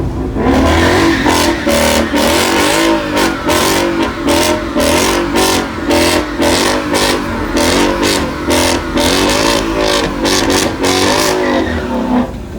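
Car engine revved over and over in quick throttle blips, about two a second, each one rising and falling in pitch.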